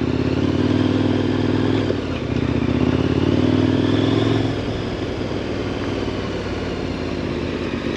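KTM 1090 Adventure R's LC8 V-twin engine running steadily under way. There is a brief dip about two seconds in, and from about halfway through it settles to a quieter, even running as the throttle eases.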